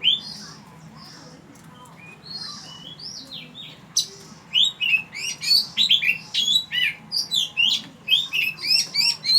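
Oriental magpie-robin singing: a few scattered whistled phrases, then from about four and a half seconds a fast run of loud, short whistled notes sliding downward, several a second.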